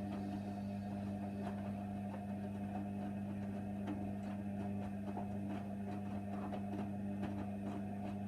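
Hoover Nextra washer dryer running with a steady low electrical hum and light scattered ticks, cutting off suddenly right at the end.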